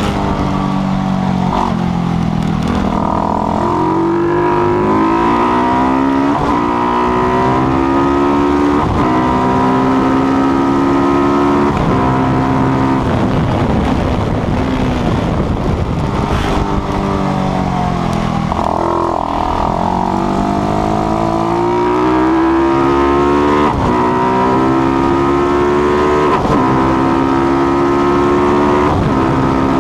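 Single-cylinder KTM 690-based Supermono race engine accelerating hard through the gears, its pitch climbing and dropping back at each upshift every couple of seconds. Twice the revs fall away under braking and downshifting, about two seconds in and again around nineteen seconds, before it pulls up through the gears again.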